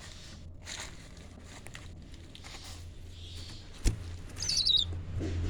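A bird's short chirping call near the end: a quick run of high notes falling in pitch, just after a sharp click.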